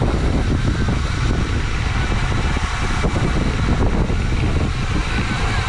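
Steady rush of wind and road noise on a bicycle-mounted camera's microphone while riding at race speed in a pack, heaviest in the low rumble.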